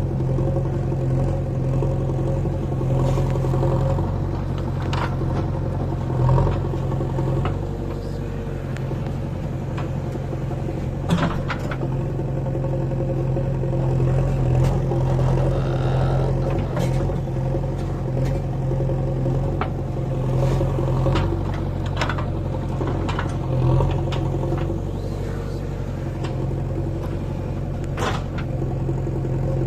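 Diesel engine of a JCB 3DX backhoe loader running steadily as it works, with scattered sharp clanks and knocks over the engine sound.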